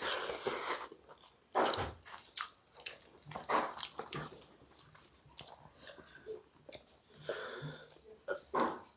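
Close-up mouth sounds of people eating rice with their hands: irregular chewing, biting and lip-smacking, in short uneven bursts.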